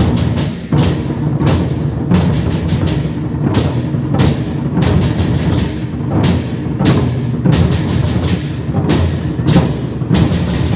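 Vietnamese lion dance drum beaten fast and hard with cymbals crashing, about three crashes every two seconds.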